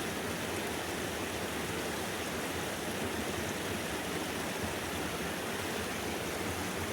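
Stream water rushing steadily over rocks, an even, unbroken hiss.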